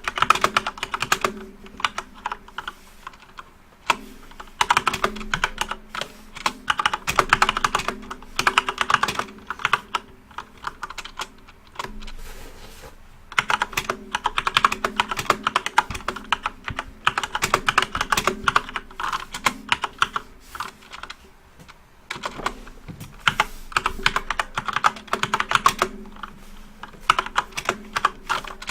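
Rapid typing on a backlit computer keyboard: dense runs of key clicks in several bursts, with short pauses between them.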